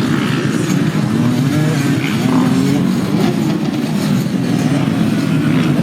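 2019 KTM 125SX's single-cylinder two-stroke engine being ridden hard, its pitch rising and falling as the rider works the throttle through the gears.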